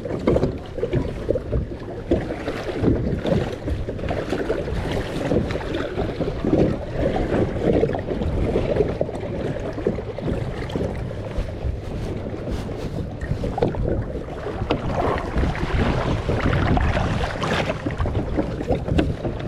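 Wind buffeting the microphone over water sloshing and splashing around a kayak being launched from the shore into choppy water, with occasional light knocks.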